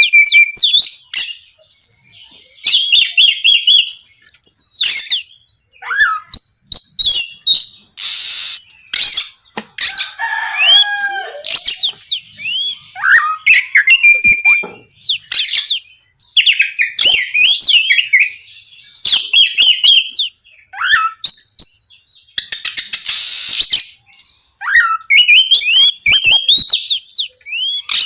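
Oriental magpie-robin (kacer) singing loudly in rapid, varied phrases of whistled rising and falling notes and trills, broken by short pauses. Twice, about 8 seconds and 23 seconds in, it gives a harsh hissing burst.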